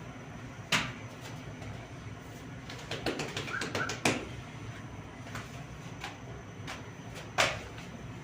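Two sharp knocks, one near the start and one near the end, with a quick run of clicks and taps in the middle, over a steady low hum.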